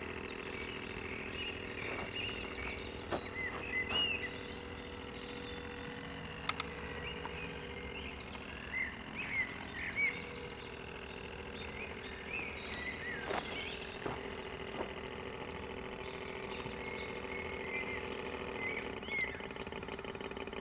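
Small birds chirping again and again over a steady low hum, with a few sharp clicks.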